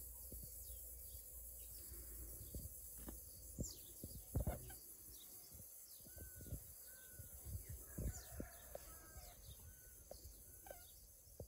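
Faint outdoor rural ambience: small birds chirping in short repeated calls, with a few soft thumps, the loudest about four and a half seconds in.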